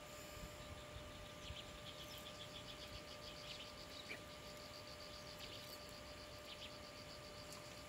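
Faint insect trilling, a rapid pulsing high chirp of the cricket kind, over quiet outdoor background with a faint steady hum.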